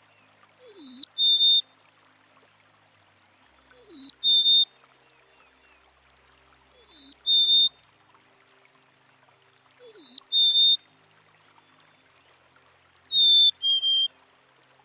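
Black-capped chickadee singing its whistled two-note fee-bee song, a higher clear note followed by a slightly lower one. It repeats five times, about every three seconds, and the last phrase is pitched a little lower.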